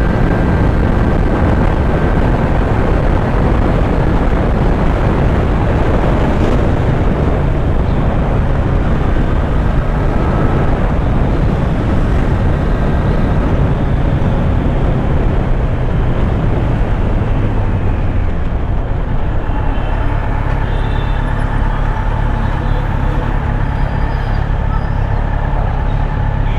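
Kawasaki Z900's inline-four engine running under way, mixed with heavy wind noise on the microphone. The engine note holds steady, with a shift in pitch partway through.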